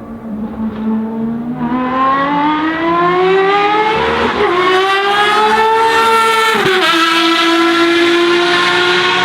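Ferrari FXX Evoluzione's V12 accelerating hard as it comes closer, its note climbing and getting louder. It makes quick upshifts, one about four seconds in and one near the seven-second mark, and then holds at high revs.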